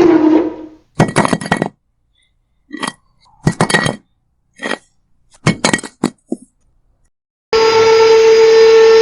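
Small electric motor of a DIY model tractor whining, dropping in pitch as it winds down just after the start. Then about six separate bursts of clinking and clattering as small bricks are loaded, with abrupt dead silences between them. The motor whine starts again near the end.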